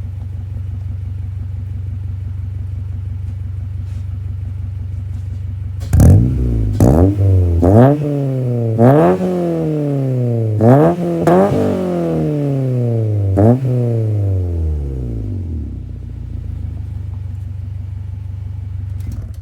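Honda H22A four-cylinder engine through a stainless 2.5-inch exhaust with stock header, Magnaflow cat, bottle-style resonator and Vibrant 1040 muffler, idling steadily, then revved in about seven sharp blips, each rising fast and falling back more slowly, before settling back to idle.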